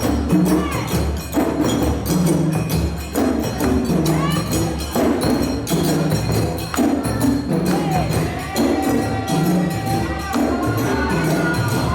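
A parade percussion ensemble playing drums, with bell or wood-block strokes and jingling shakers over a steady, driving rhythm.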